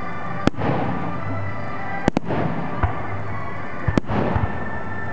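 Fireworks going off: a sharp bang about half a second in, a quick pair just after two seconds, a single bang shortly before three seconds, and another pair near four seconds. The bigger bangs trail off in a spreading hiss.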